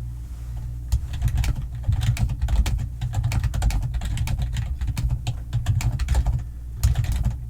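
Rapid typing on a computer keyboard: a dense run of keystrokes starting about a second in, a brief pause near the end, then more keys. A steady low hum sits underneath.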